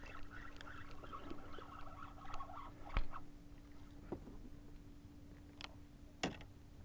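Scattered sharp clicks and knocks from handling a fish and tackle in a plastic kayak, the loudest about three seconds in. Beneath them are a faint steady hum and a faint chirring that fades out after about three seconds.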